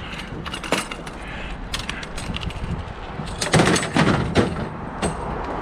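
Scrap being handled and pulled apart by hand: scattered clicks and knocks, then a louder run of clattering knocks about three and a half seconds in.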